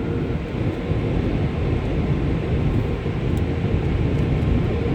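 Car wash water spray and equipment working over a snow-covered car: a steady, rumbling rush that grows slowly louder.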